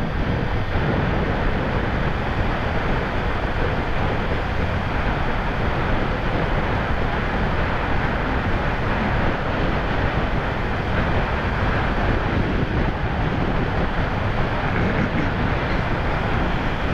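Steady rush of wind on the microphone of a Kawasaki Ninja 300 motorcycle at riding speed, with the bike's engine and road noise running underneath.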